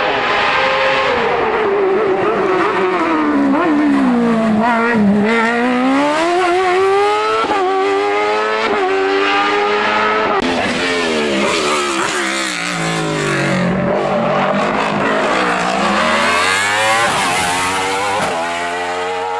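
A hill-climb race car's engine braking down for a bend and then accelerating hard, its note climbing through several quick upshifts. It slows again for another bend and pulls away once more.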